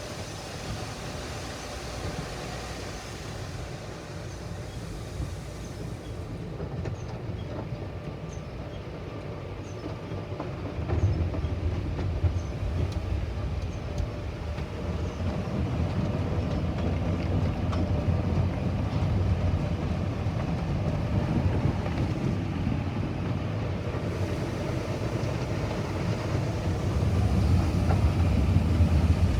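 Car wash machinery running: a steady low rumble that grows louder about eleven seconds in and again near the end.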